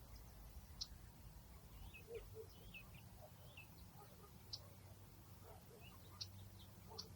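Faint outdoor ambience of small birds chirping: scattered short high chirps and a few brief, quick curved calls over a low, steady rumble.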